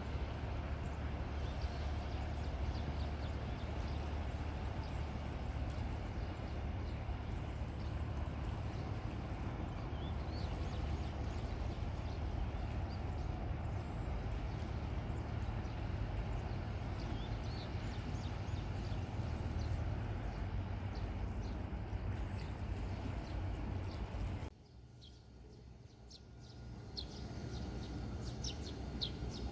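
Steady outdoor noise with a heavy low rumble, which cuts off abruptly about two-thirds of the way through to a quieter ambience where small birds chirp near the end.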